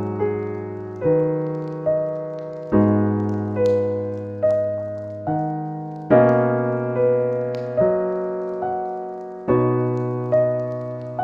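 Slow, gentle piano music: notes and chords struck about once a second and left to ring out.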